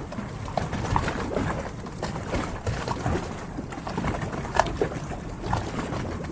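Harbour water lapping against the hulls of moored yachts: a steady wash broken by many small, irregular splashes and hollow plops.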